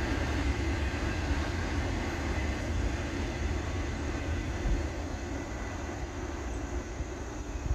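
Freight train rolling past with a steady low rumble and rail noise, slowly fading.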